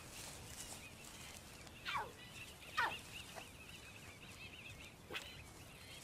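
Birds calling: steady warbling song with three sharp whistles that fall steeply in pitch, about two, three and five seconds in.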